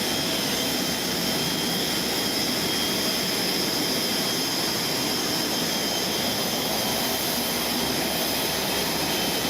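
Jet turbine running steadily: a constant rush with a high, steady whine on top, with no changes.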